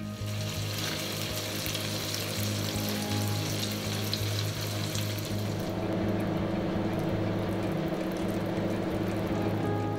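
Chicken pieces sizzling in a Staub enamelled cast-iron pan, with crackling spatters of oil, over background music. About halfway through the sizzle gives way to a softer, lower simmering of the stewing acqua pazza.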